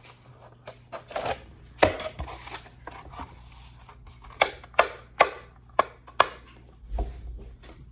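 Thin plastic armor kit parts rustling and clicking as they are handled and trimmed, with a string of sharp, separate snaps through the middle.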